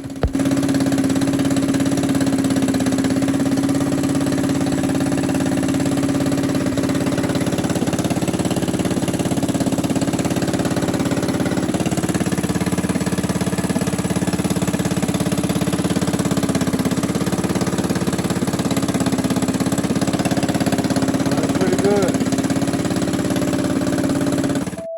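Mini bike's small single-cylinder gas engine running steadily and smoothly at an even, unchanging note, running well. The sound cuts off abruptly near the end.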